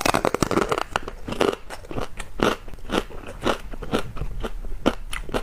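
A bite into crispy-skinned pork belly, its crackling skin breaking in a burst of crunches, followed by steady crunchy chewing at about two crunches a second, picked up close by a clip-on microphone.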